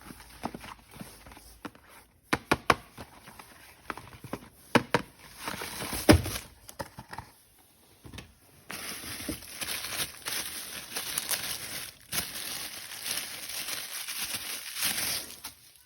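Hard plastic toy-gun parts being handled, with a few sharp clicks and knocks, the loudest about six seconds in. Then a long stretch of plastic packaging rustling and crinkling, from about nine seconds in until near the end.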